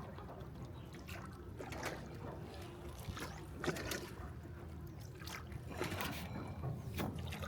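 Oars of a hand-rowed boat dipping and pulling through the water, a soft splash about once a second, over a low steady rumble.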